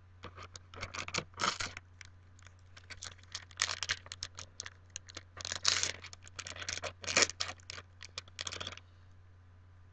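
Foil trading-card booster pack crinkling and tearing as it is opened and its cards are handled, in short irregular bursts of rustling and scraping that stop about a second before the end.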